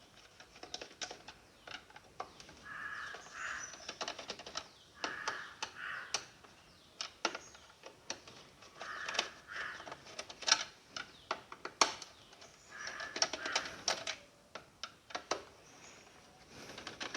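Screws being undone with a screwdriver from the back of a mixer grinder's plastic housing: irregular sharp clicks and ticks, with a short creak each time a screw turns, recurring every few seconds.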